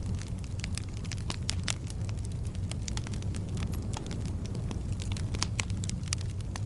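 Fire in a fireplace crackling: many small, irregular sharp pops over a steady low rumble of the flames.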